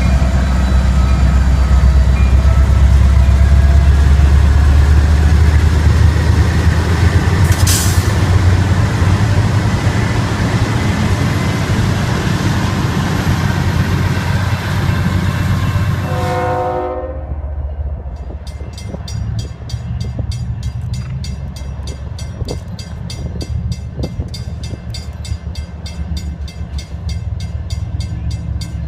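Train passing close by with a loud, steady low rumble, then a short horn blast about two-thirds of the way in. After that the rumble drops and turns into a rapid, even clicking of wheels over the rails.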